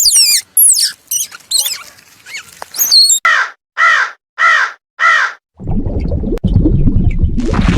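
Bird calls: quick high chirps and falling whistled notes, then four harsh, evenly spaced calls about half a second apart. A loud, steady rushing noise takes over shortly after the calls.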